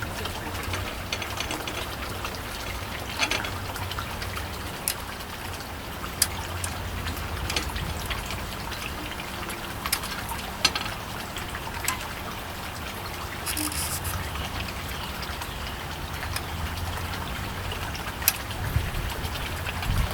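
Steady wind rumble on the microphone, with scattered light clicks and taps from hand tools working a diode's pins on a circuit board.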